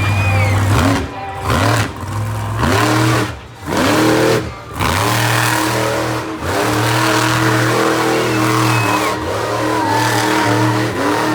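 Monster truck engine revving hard during a freestyle run, the throttle cut and reapplied several times in the first six seconds so the pitch drops and climbs again each time, then held at high revs.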